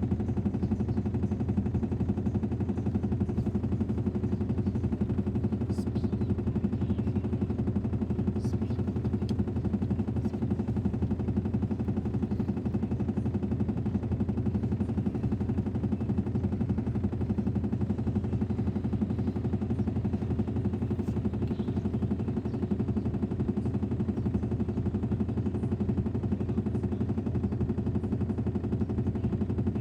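Washing machine on its spin cycle, the drum turning at a steady high speed with a low hum and a fast, even rattle.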